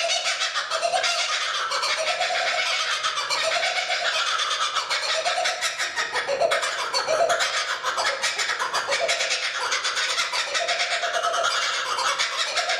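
Laughing kookaburra giving its laughing call: a run of rising-and-falling notes about one a second over a fast, dense chatter.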